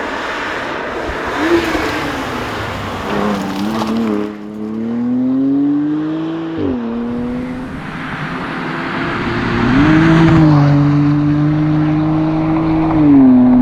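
BMW M2 Competition's twin-turbo straight-six pulling hard through the gears, its note climbing steadily and dropping sharply at an upshift about halfway through and again near the end, over tyre and wind noise.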